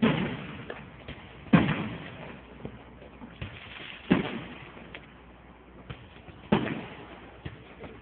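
Fireworks shells bursting in the sky: four sharp booms a couple of seconds apart, each trailing off in a short rumbling echo.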